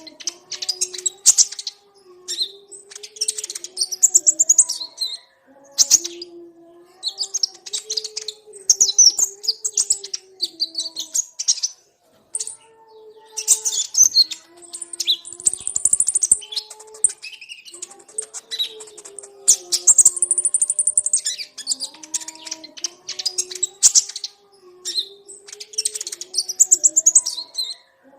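Recorded song of a konin, the sunbird that bird-keepers call kolibri ninja: quick bursts of high, rapid twittering a second or two long, repeated with short pauses, used as lure audio to get other konin singing. A soft low melody runs underneath.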